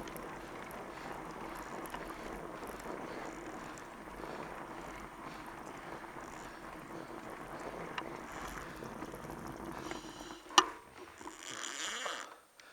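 Steady rolling noise of a fat bike's wide tyres on a packed-snow trail, mixed with wind on the microphone. It stops about ten seconds in, followed by a sharp click and a short rustle.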